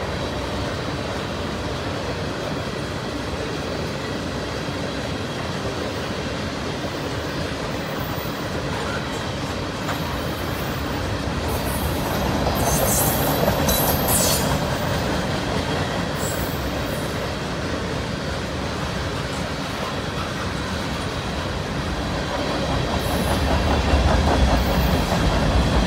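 Freight train tank cars and covered hoppers rolling past: a steady rumble and clatter of wheels on rail, with brief high-pitched wheel squeals about halfway through and again near the end, where it gets a little louder.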